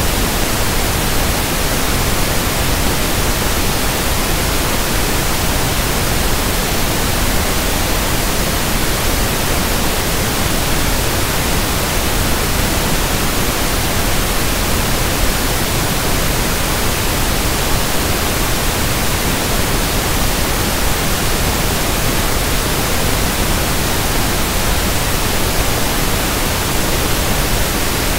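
Steady pink noise (1/f noise): an even, unchanging hiss spread across the whole range of pitch, with no events or changes.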